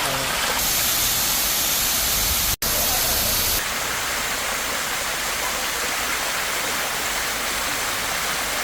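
Waterfall running in high flow over stepped rock, a steady rushing of water. The sound drops out for a split second about two and a half seconds in, and its tone shifts slightly at about half a second and three and a half seconds in.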